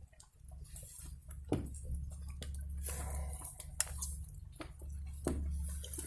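Someone chewing a mouthful of spaghetti and meatballs, with a few sharp clicks of a utensil against a pot, over a low steady rumble.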